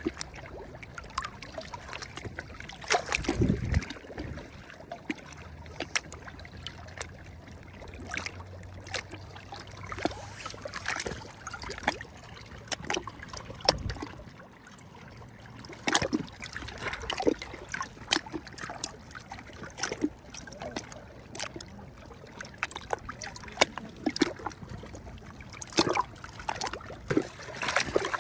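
Small sea waves lapping and splashing at the shore, with many short splashes and trickles and a heavier wash about three seconds in.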